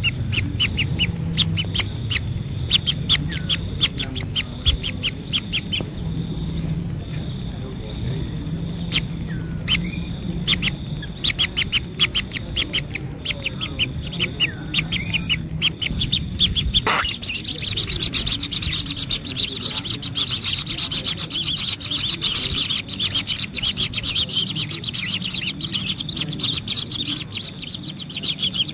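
Birds calling: a quick series of short, high chirps, turning into denser, continuous chattering about halfway through.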